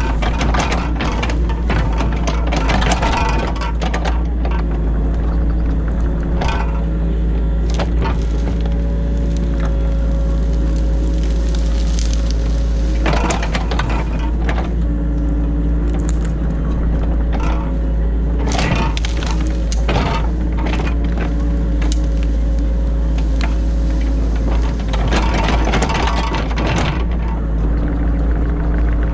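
Excavator engine droning steadily, heard from inside the cab, with clusters of knocks and crackling scrapes every few seconds as the bucket digs and dumps ditch silt.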